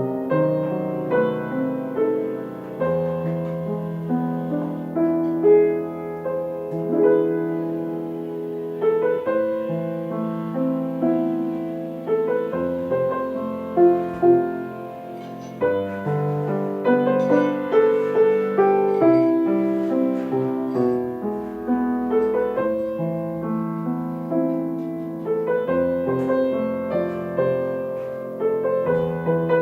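Solo piano playing a slow, gentle piece, with chords and melody notes that ring and fade one after another.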